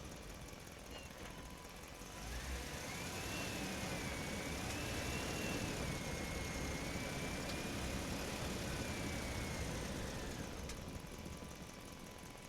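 Small motor of a toy tractor running with a wavering whine over a low rumble. The whine starts about two seconds in and fades away near the end.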